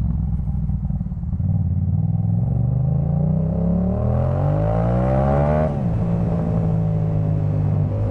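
Yamaha MT-07's 689 cc parallel-twin engine through a Jeskap K4 full exhaust, under way. The note is low and steady at first. Then the revs climb for about three seconds under acceleration. About two-thirds in they drop sharply and settle into a steady, lower note.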